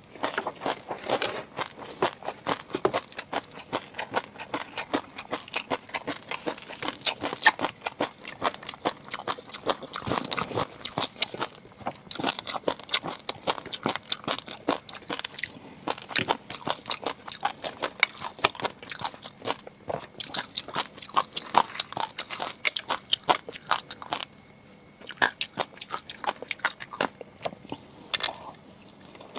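Close-miked eating: steady chewing and biting with dense, rapid crunchy clicks and wet crackles, pausing briefly about 24 seconds in.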